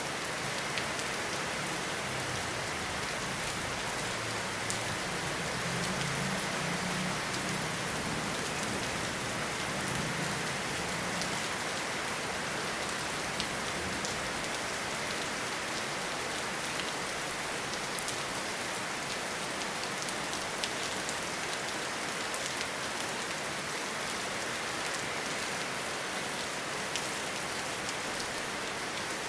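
Steady rainfall on forest foliage, a continuous hiss with scattered individual drop ticks. A low rumble swells and fades in the first half.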